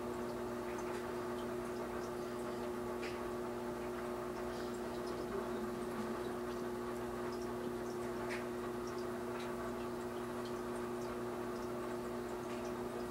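Steady hum of an aquarium pump, with a few faint scattered ticks over it.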